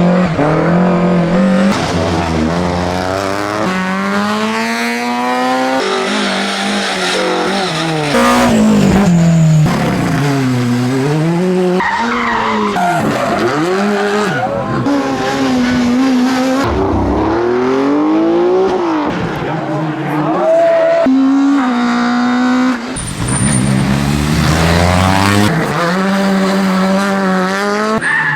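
Rally car engines revving hard at full throttle, pitch climbing and dropping repeatedly through gear changes and lifts for the corners, with tyres skidding. Several cars are heard in turn, each cutting off abruptly into the next.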